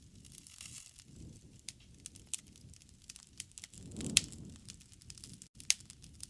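Campfire burning, with irregular sharp crackles and pops from the wood and a low rumble of flame that swells about four seconds in, where the loudest pop comes.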